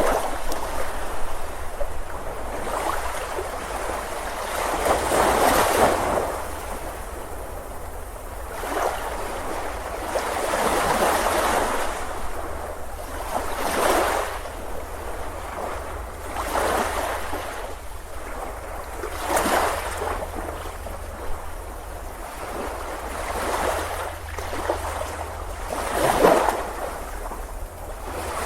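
Ocean surf on a beach, waves breaking and washing in swells that rise and fall every two to three seconds, over a steady low rumble.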